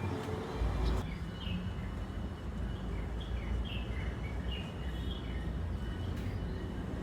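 Small birds chirping: a string of short, quick falling chirps, a few a second, from about a second in until near five seconds, over a steady low rumble of city traffic.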